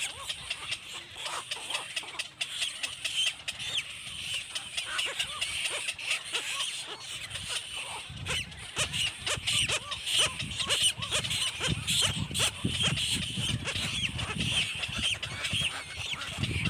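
Baby birds cheeping over and over in short, high calls. From about halfway, a run of quick clicks and a low rumble join in.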